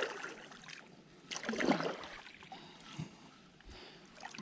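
Kayak paddle strokes, the blade dipping and pulling through pond water, with the strongest splashing stroke about a second and a half in and a lighter one near the end.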